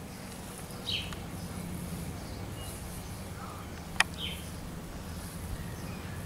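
Garden ambience: a small bird gives two short falling chirps, one about a second in and another about four seconds in, over a steady low hum and a faint high hiss. A single sharp click comes just before the second chirp.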